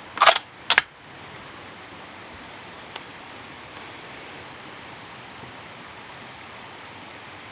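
A 6.5 Creedmoor rifle shot near the start, followed about half a second later by a second, shorter sharp report. After that there is only a steady hiss.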